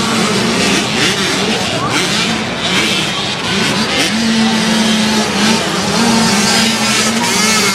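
Several motocross bikes' engines revving up and down as they race past, the pitch rising and falling with the throttle.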